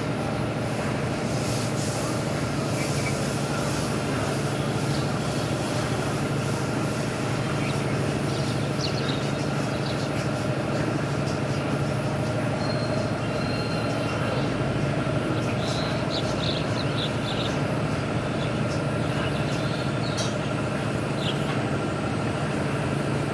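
Steady running noise of a vehicle: an even rumble with a constant hum and a few faint high ticks scattered through it.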